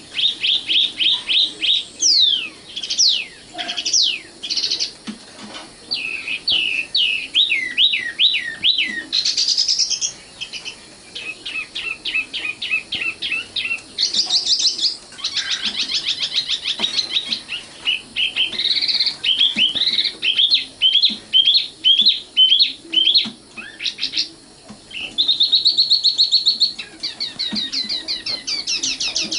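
Common nightingale singing a long run of varied phrases. Each is a burst of rapidly repeated notes, sweeping whistles or a fast trill, separated by brief pauses.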